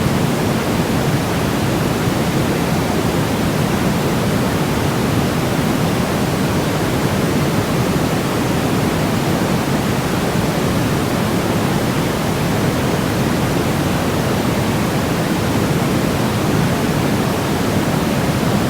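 Baby-sleep white noise: a steady, unchanging hiss, fullest in the lower-middle range and softer in the highs.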